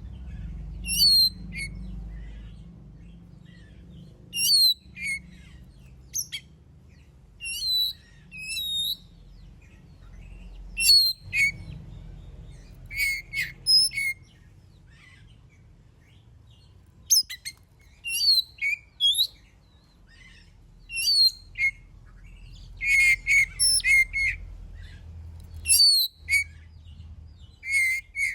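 Oriental magpie-robin singing in short bursts of sharp, varied whistled notes with pauses between them, the phrases coming more often near the end. A faint low hum runs underneath.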